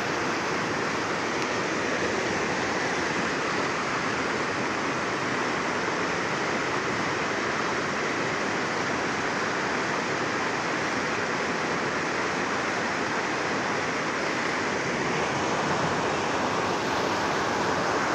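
Flooded river rushing in spate, a steady loud roar of fast turbulent water with no let-up.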